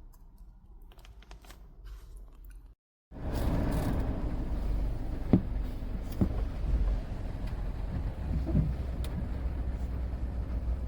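A few faint clicks, then after a sudden cut about three seconds in, a car's steady low rumble of engine and road noise, with a few sharp knocks.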